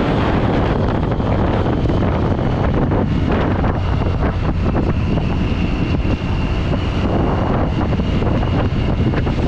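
Triumph Street Triple 675's inline three-cylinder engine running through its stock exhaust at riding speed, buried in heavy wind noise on the microphone. A faint, steady high whine joins for a few seconds in the middle.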